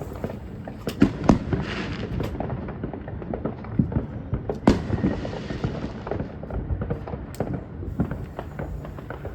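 Fireworks going off: a string of sharp bangs and pops, the loudest about a second in and again near five seconds in, each trailed by a hiss.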